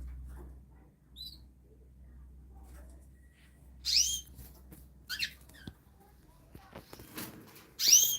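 Small birds chirping: a few short, sharp high chirps, the loudest about four seconds in and again near the end, with a low hum in the first second.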